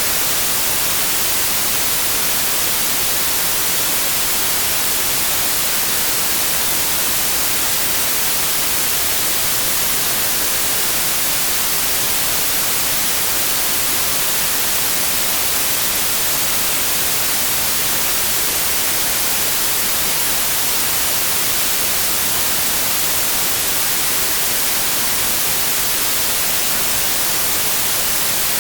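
Steady synthetic white noise: an even, unchanging hiss across the whole range, with no tones, rhythm or events.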